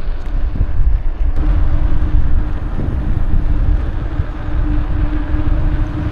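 Wind buffeting the microphone while riding along, a heavy low rumble, with a steady low hum coming in about a second and a half in.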